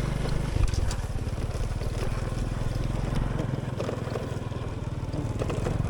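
Dirt bike engine running steadily as the bike is ridden over a slick, muddy dirt road, with a couple of short knocks a little under a second in.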